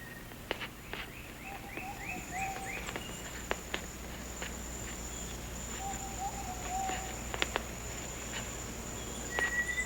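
Tropical rainforest ambience: insects keep up a steady high-pitched drone. Over it, birds call: a quick series of short falling notes, two brief wavering low calls, and a clear steady whistle near the end, with a few sharp clicks in between.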